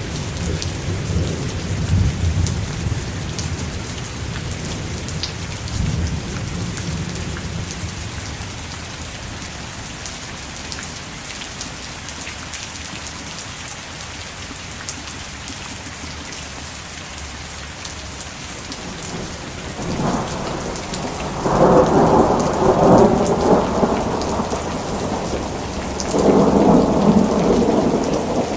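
Steady rain with rolling thunder. A low rumble of thunder fades away over the first several seconds, then two louder rolls of thunder swell up about two-thirds of the way through and again near the end.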